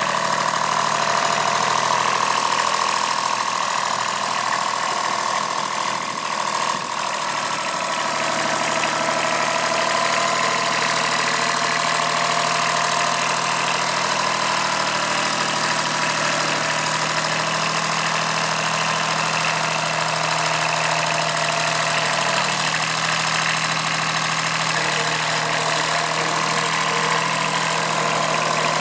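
Kubota B7001 compact tractor's diesel engine running steadily, with the rattly knock of a small diesel. About seven seconds in it briefly dips and its pitch shifts slightly.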